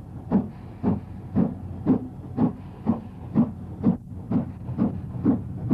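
Steam locomotive exhaust beats: a steady, even run of chuffs, about two a second, over a low rumble.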